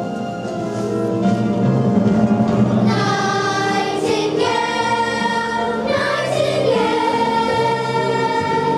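Children's voices singing a song with musical accompaniment, the singing fuller and brighter from about three seconds in.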